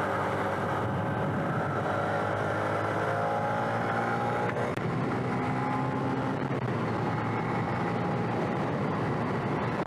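Small petrol engine of a motorised bicycle running under way, with a steady rush of wind and road noise on the microphone; its pitch shifts about halfway through.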